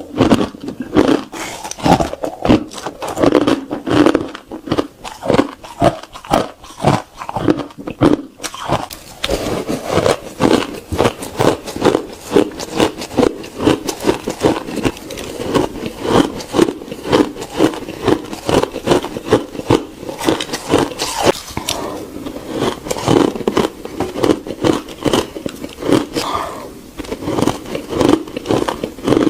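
Ice being bitten and crunched between the teeth close to the microphone, a continuous run of rapid crunches several a second.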